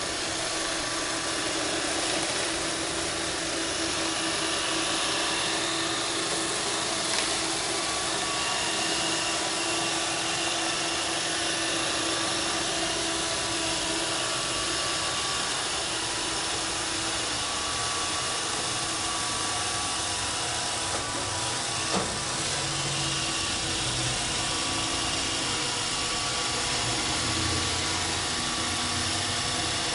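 Roomba 531 robot vacuum running, a steady whir of its motors and brushes, with two short sharp knocks, about a quarter of the way in and about three quarters of the way in.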